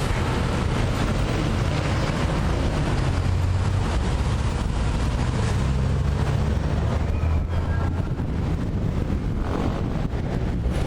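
Diesel engine of a digger (backhoe loader or excavator) running steadily with a low rumble, mixed with wind noise on the microphone.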